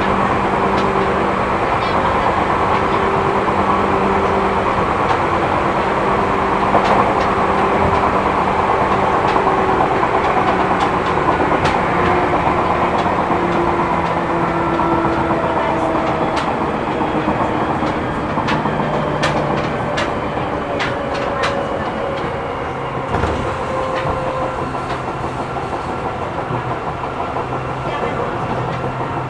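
Running noise inside a Seibu New 2000 series electric train car: wheels rumbling on the rails with the knock of a flat spot on a wheel, plus sharp clicks from about two-thirds of the way through. The traction motor tones fall slowly in pitch as the train slows.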